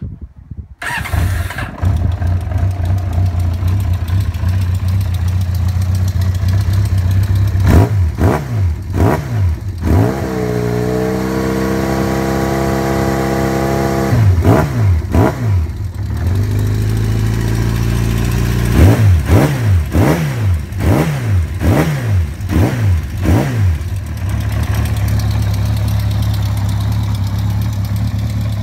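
A 2000 Yamaha XJ600S Diversion's air-cooled, carburetted 600cc inline-four starts about a second in and idles through twin Delkevic stainless steel exhausts. Partway through it is given a few quick throttle blips, then a rev held for about four seconds, then more blips. It settles back to a steady idle.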